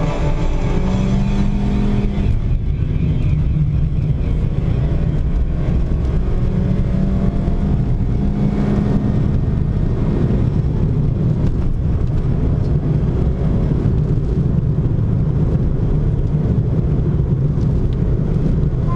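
Car engine and road noise heard from inside the car, sped up to double speed. The engine note steps up and down as the car changes speed.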